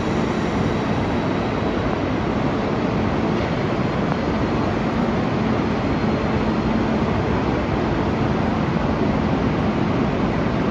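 A train's steady running noise: an even rush with a faint steady hum underneath.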